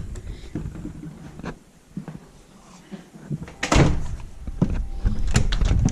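A few light clicks, then a loud thump a little over halfway through, like a door shutting, followed by rough rustling and knocking noise.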